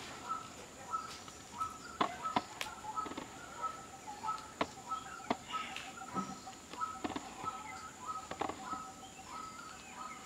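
A bird calling over and over in the background, a short high note two to three times a second. Over it come scattered sharp clicks and rustles from kittens scuffling on a woven plastic sack.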